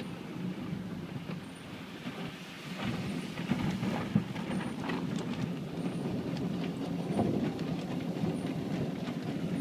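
Autec in-bay automatic car wash working over the car, heard from inside the cabin: a steady rumble of machinery and water on the body, with scattered sharp ticks.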